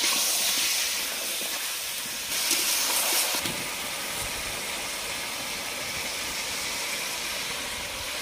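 Chicken pieces sizzling in hot mustard oil in a kadai, a steady frying hiss. The sizzle swells louder for about a second, two to three seconds in.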